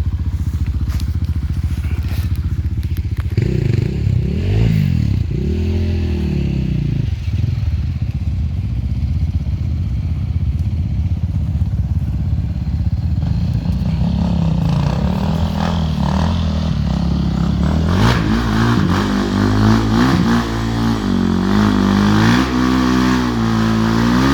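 Enduro motorcycle engine running. It is low and steady at first, then revved up and down over and over as the bike is ridden, with quicker throttle blips near the end.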